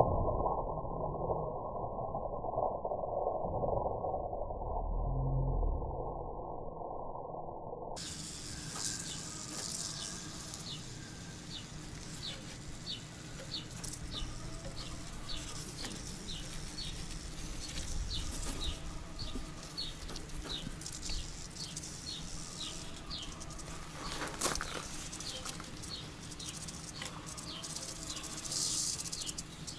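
A bird repeats a short, high chirp roughly every two-thirds of a second over faint outdoor rustling. Before that, for about the first eight seconds, there is only a muffled low rumble.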